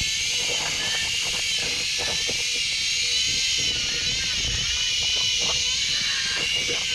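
Quadcopter drone's propellers whining, several high pitches wavering up and down together as the rotors change speed, over a low gusty rumble of wind on the microphone.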